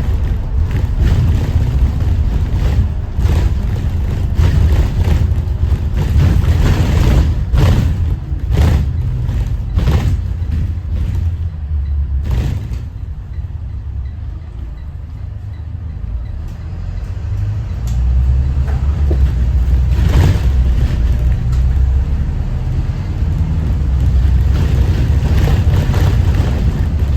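Thomas Saf-T-Liner C2 school bus with a Detroit engine running on the road: a heavy low rumble with frequent knocks and rattles. It eases quieter for a few seconds about halfway through, then builds again.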